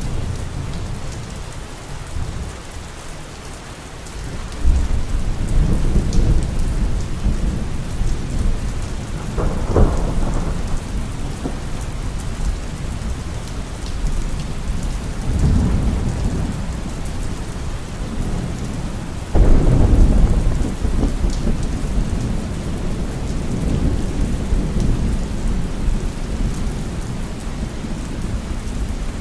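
Heavy rain falling steadily under rolling thunder, which swells several times. A sharper crack comes about a third of the way in, and the loudest clap breaks suddenly about two-thirds through, then rumbles on.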